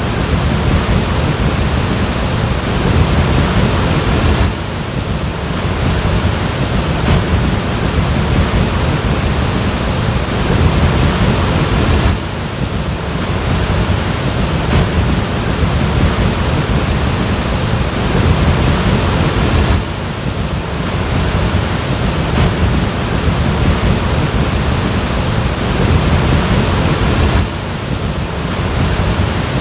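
Loud, steady rush of fast-flowing floodwater, mixed with wind noise. It drops briefly in level about every seven and a half seconds.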